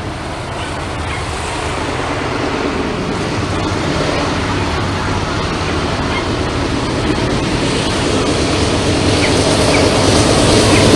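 Norfolk Southern freight train approaching, its rumble growing steadily louder.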